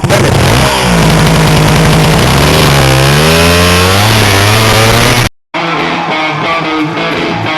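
Kawasaki KDX two-stroke dirt bike engine revving, its pitch dipping and climbing several times, until it cuts off abruptly about five seconds in. Rock music with distorted electric guitar follows.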